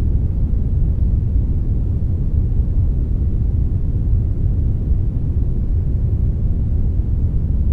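Steady synthetic brown noise blended with white noise: an unbroken deep rushing hiss, strongest in the low end, with no change in level.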